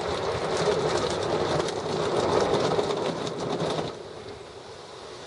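Ryko rollover car wash machine working over the car, heard from inside the car: a loud rush of spray with a fast, even clatter on the body, cutting off about four seconds in to a quiet steady hiss.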